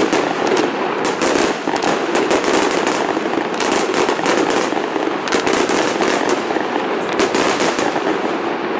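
Fireworks going off in a dense run of rapid crackling and popping, many sharp cracks close together, from red crackling star effects bursting low over the display site.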